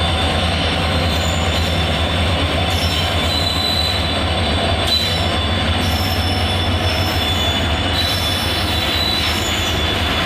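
Loaded freight wagons rolling past on the rails with a steady low rumble, and brief high-pitched wheel squeals now and then.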